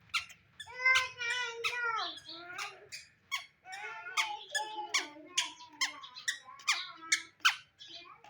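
Toddler squealing and babbling in high, wavering voice sounds, with sharp clicks scattered between them.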